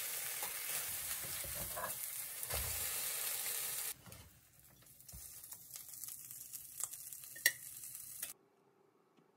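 Eggs and ham sizzling in a hot nonstick frying pan while a spatula scrapes and pushes them around, with scattered scraping clicks. The sizzle drops sharply about four seconds in, carries on quieter, and cuts off near the end.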